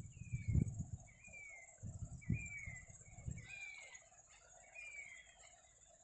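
A bird repeating a short falling whistle about once a second over a steady high insect drone. Low wind rumble on the microphone fades out after the first few seconds.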